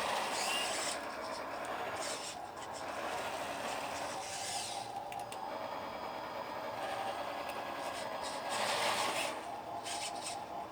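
Radio-controlled model construction machines at work: a steady mechanical whine of small motors and gears, with repeated swells of scraping noise, near the start, about four seconds in and again near the end.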